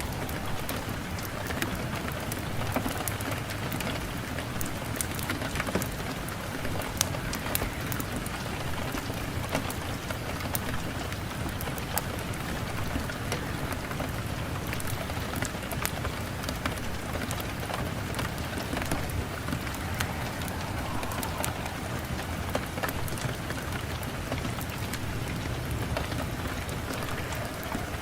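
Steady rain falling on a surface, a continuous hiss with many small, sharp drop ticks scattered through it.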